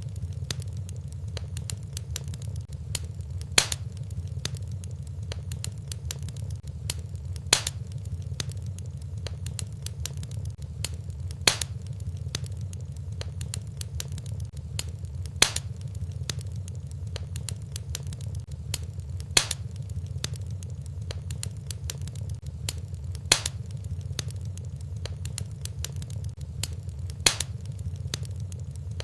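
Wood fire in a fireplace crackling over a steady low rumble, with a sharper, louder pop about every four seconds among many small crackles.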